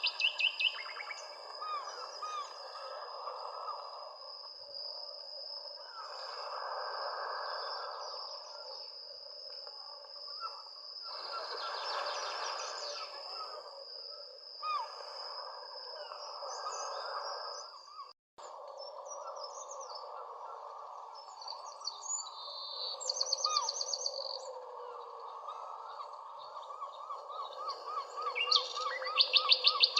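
Several birds chirping and trilling over a steady background hiss. A thin, steady high whine runs beneath them and stops with a brief dropout in the sound about two-thirds of the way through.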